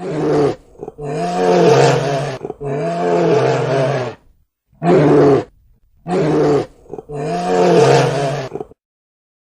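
A large wild animal roaring: six deep, loud roars in a row, some short and some about a second and a half long, with short pauses between them.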